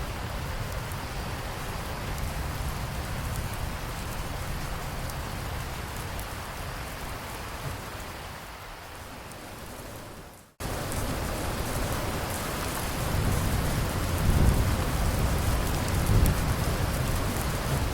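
Steady rain with low rolling thunder. About ten seconds in, the rain fades and drops out for an instant, then comes back abruptly, like a loop seam in the recording; the low thunder rumble swells in the last few seconds.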